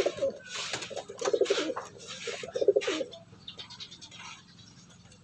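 Racing pigeons cooing in a loft: three throbbing coos in the first three seconds, with short rustles between them, then only faint sounds.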